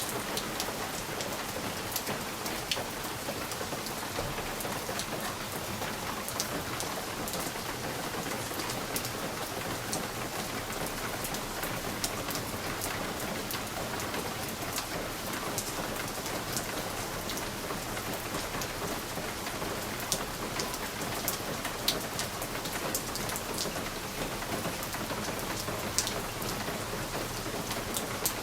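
Steady rain pattering on a window pane, with scattered sharper taps of single drops striking the glass.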